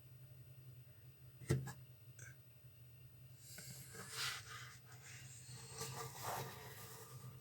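A single sharp knock about a second and a half in, then a few seconds of scraping and rubbing, over a steady low hum.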